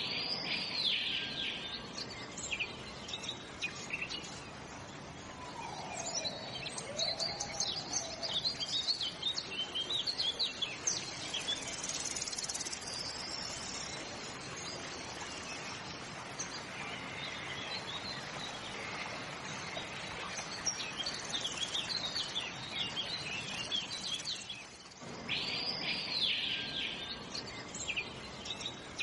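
Several birds chirping and calling over a steady outdoor hiss, with quick high chirps throughout and a looping call at the start and again near the end.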